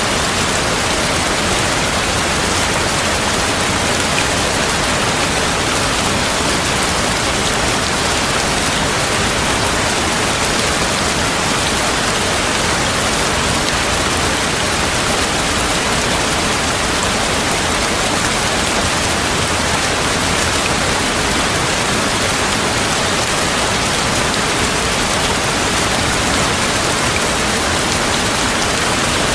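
Steady heavy rain, a dense even hiss that does not change, with no thunder.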